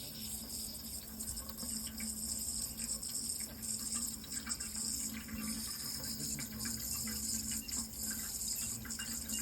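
Steady running water, with a high, even chirring of crickets over it and a low hum beneath.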